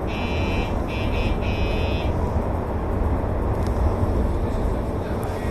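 An electronic alarm buzzer sounding in broken beeps for about the first two seconds, following an emergency brake application on a commuter train, over the train's steady low rumble.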